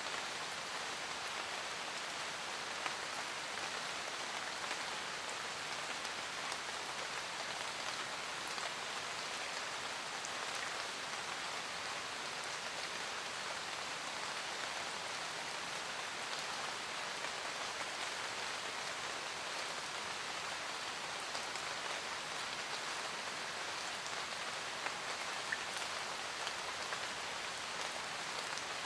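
Steady rain pattering on a roof: an even hiss with scattered individual drops ticking, a few of them a little louder near the end.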